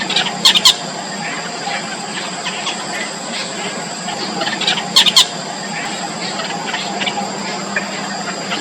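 Nestling birds begging with shrill squeals, loudest in short bursts about half a second in and again about five seconds in, with faint chirps in between over a steady background hiss.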